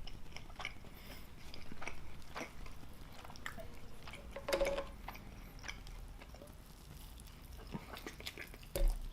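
Close-miked chewing of a bacon burger: soft wet mouth clicks and smacks scattered throughout. A brief low hum comes from the eater about four and a half seconds in.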